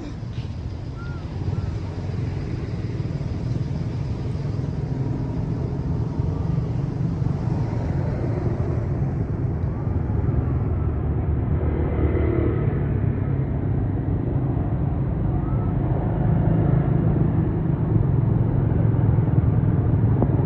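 Low engine rumble of a motor vehicle, steady and slowly growing louder.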